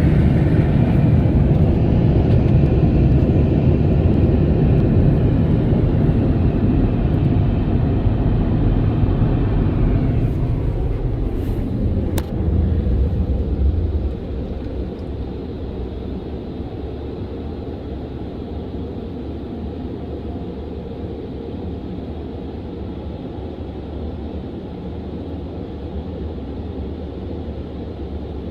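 Car wash dryers blowing loudly, then shutting off about ten seconds in and winding down with a falling whine; a lower steady rumble remains afterwards.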